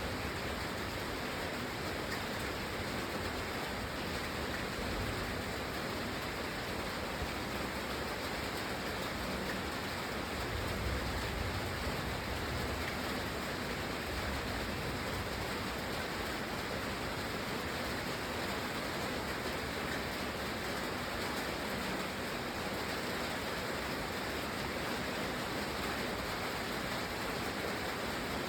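Steady rain falling, an even continuous hiss, with a brief low swell about ten seconds in.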